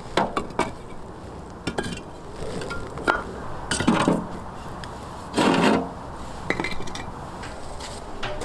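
Camping gear being handled and packed up: scattered light clicks and knocks, with two short louder scraping, rustling sounds about four and five and a half seconds in.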